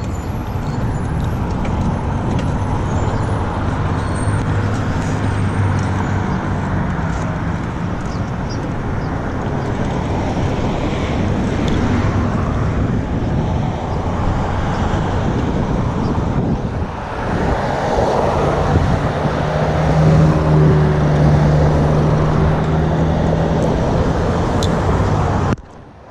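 Steady road traffic noise of passing cars, with a vehicle's low engine hum coming through in the last third. The sound drops away suddenly just before the end.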